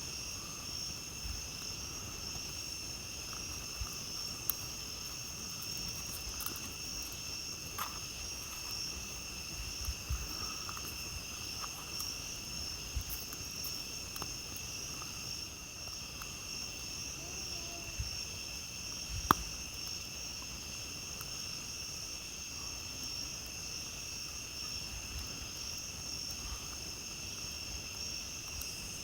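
Steady chorus of crickets trilling in several high pitches, with a campfire crackling in short, scattered pops and one sharp, louder pop about two-thirds of the way through.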